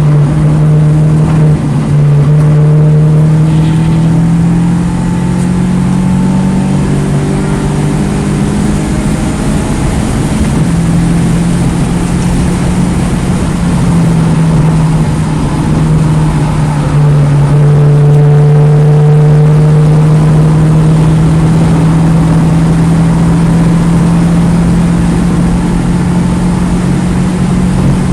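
2009 Mini Cooper S's turbocharged 1.6-litre four-cylinder engine running hard at high revs on track, with loud wind and road noise. The engine note holds mostly steady, with small rises and falls.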